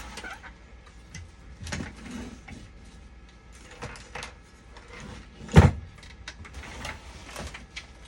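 Scattered clicks, light knocks and brief scraping noises, with one loud thump about five and a half seconds in.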